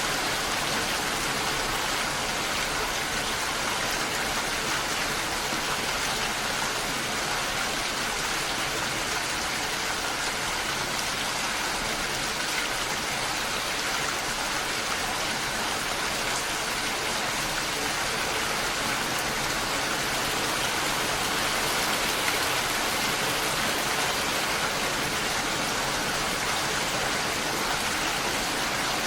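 Steady rain falling, a continuous even hiss of many drops.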